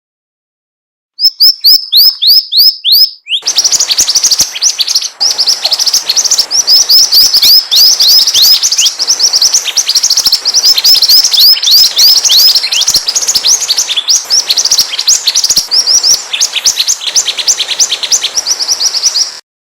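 Mantenan bird's lure song: rapid, high, sharply falling chirps repeated several times a second. It starts about a second in, pauses briefly, then runs on densely until it cuts off near the end.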